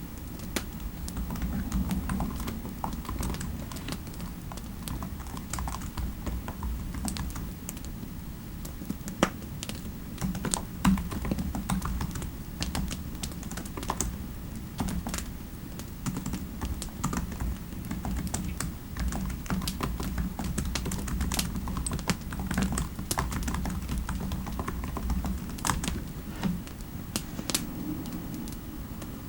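Typing on a computer keyboard: a steady run of quick, irregular key clicks, over a low, steady background rumble.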